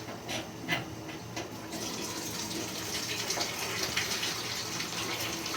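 Water rushing out of a steam boiler's opened drain, a steady flow that starts about two seconds in after a few light clicks. The boiler is being drained to check that the freshly unclogged sight glass now shows the water level falling.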